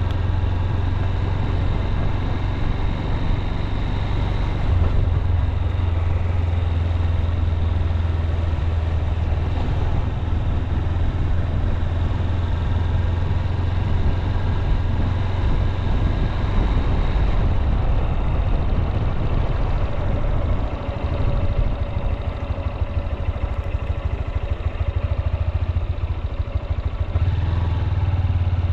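Honda CB200X motorcycle's single-cylinder engine running steadily while the bike cruises leisurely through town streets, with a strong low rumble. The engine eases off somewhat about two-thirds through.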